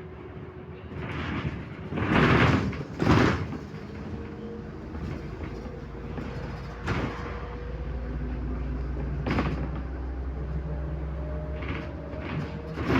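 Inside a MAZ-105 articulated city bus: two loud blasts of air hiss from the bus's pneumatics, then the diesel engine drone builds and carries on steadily, its pitch rising slightly.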